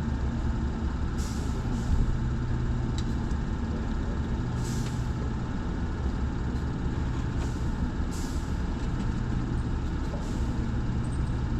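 Steady low machinery hum, with short hissing bursts every few seconds.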